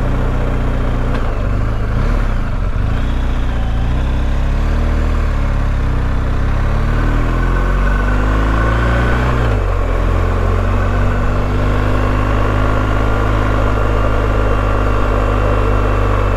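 BMW R1250GS boxer-twin motorcycle engine running under way, with a steady haze of road and wind noise. The revs climb for a few seconds, drop suddenly about ten seconds in, then hold steady.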